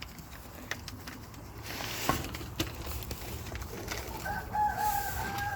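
A rooster crows once near the end, a single wavering call about a second and a half long, over light rustling and clicks.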